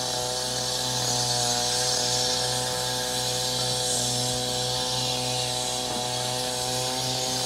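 Small engine running steadily at a constant speed, with a steady high hiss over it.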